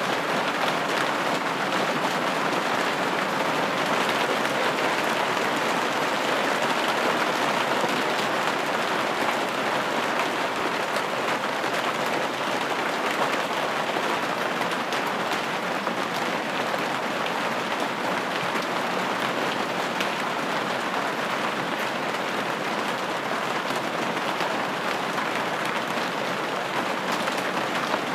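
Steady rain falling on a window pane, an even patter with no changes.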